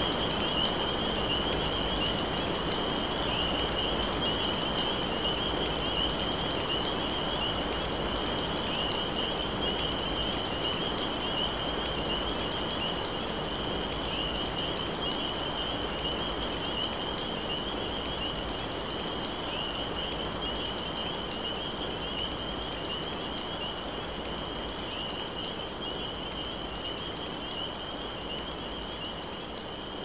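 Steady rain falling, an even hiss with fine drop ticks, and a continuous high trill running above it. The whole slowly gets quieter.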